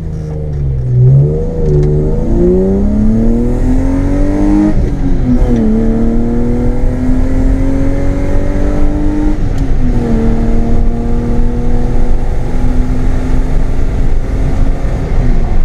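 BMW M52 2.8-litre straight-six with a straight-piped exhaust accelerating hard, the revs climbing through a gear, dropping at an upshift about five seconds in, climbing again and dropping at a second upshift about ten seconds in, then holding nearly steady.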